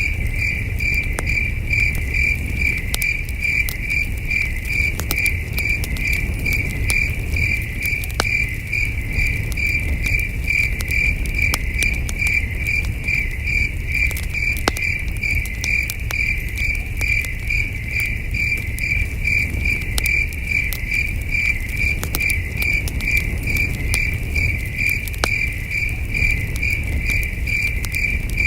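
Crickets chirping in an even, unbroken rapid pulse, with scattered sharp crackles and pops from a campfire over a low rumble.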